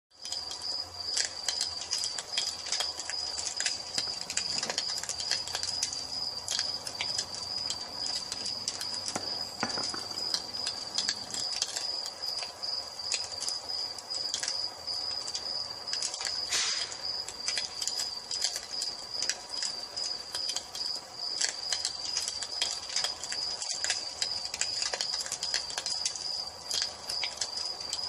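Wood fire crackling with frequent small pops and snaps, over crickets chirping without pause at a steady high pitch.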